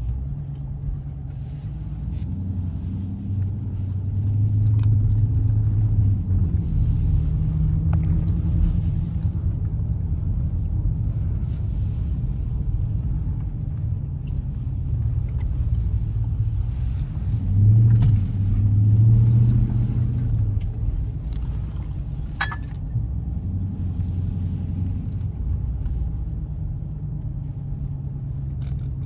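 Dodge Challenger Scat Pack's 392 HEMI V8 running as the car is driven, a deep low rumble that swells twice as it accelerates, about four seconds in and again around eighteen seconds. A single sharp click comes a few seconds after the second swell.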